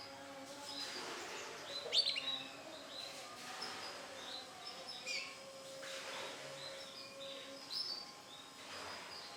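Male canary chirping in short, scattered high calls, the loudest about two seconds in.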